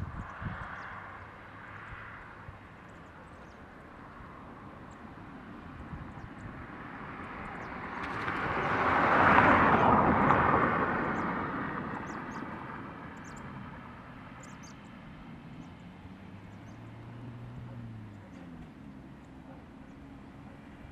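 Jet engines of a Boeing 757 airliner passing at taxi or runway power, swelling slowly to a peak about nine seconds in, then fading back to a steady distant hum.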